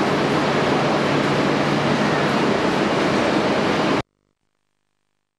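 Steady, loud rushing noise of a train beside the microphone, recorded on an old camcorder; it cuts off abruptly about four seconds in.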